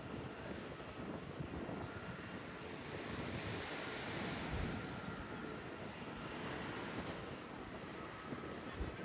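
Sea surf washing onto a beach, rising and falling twice, with wind gusting on the microphone.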